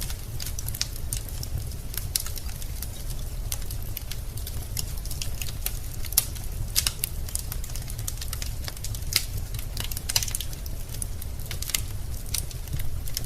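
Wood fire crackling in a fireplace: irregular sharp pops and snaps from burning logs over a steady low rumble.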